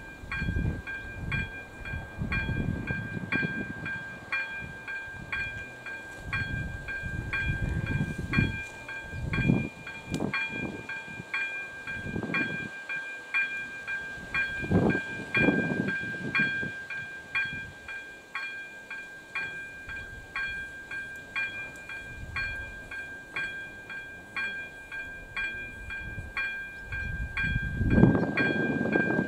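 ZV-02 railroad crossing warning bell ringing steadily with evenly spaced dings, about one and a half a second, over a held ringing tone. Under it, irregular low rumbling swells about halfway through and again near the end.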